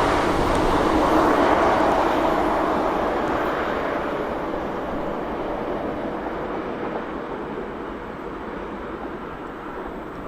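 Train rolling past and moving away, a steady rushing rail noise that fades gradually.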